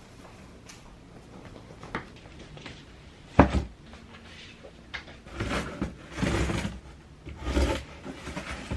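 A large plant pot being handled: one sharp knock about three and a half seconds in, then stretches of rubbing and scraping.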